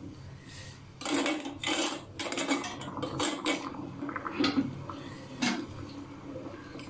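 A spoon clinking and scraping against a pan while sugar is stirred into hot water for syrup: a run of quick knocks and scrapes starting about a second in and easing off after about five seconds.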